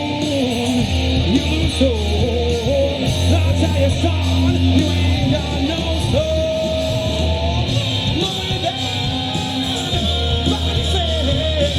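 Live rock band playing, with a voice singing over guitar and a steady bass.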